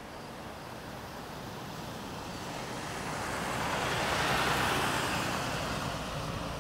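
Road noise from a moving pickup truck, with a low steady rumble. A passing vehicle's rush swells to a peak about four seconds in and then fades.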